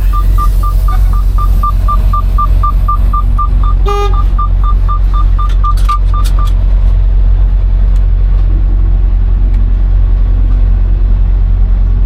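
Fast electronic beeping, about four short beeps a second at one pitch, stopping about six and a half seconds in, over the steady low rumble of a semi truck's diesel engine. A short tone cuts across the beeping about four seconds in.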